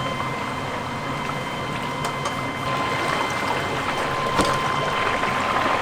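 Chicken deep-frying in hot oil: a steady, dense sizzle with fine crackling, under a faint steady whine. The chicken is getting its first par-fry.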